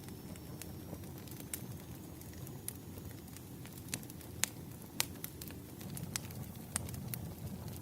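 Fireplace crackling: a steady low rumble of burning wood with irregular sharp pops and snaps, two louder ones near the middle.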